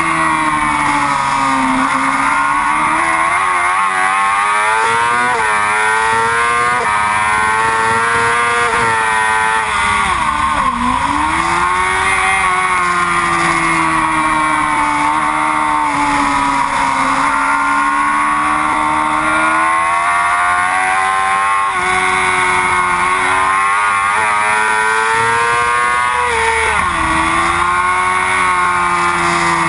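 Yamaha R6 sport bike's inline-four engine at race pace. The revs climb and drop sharply through gear changes, and fall away deeply twice, around 10 and 21 seconds in, before pulling up again.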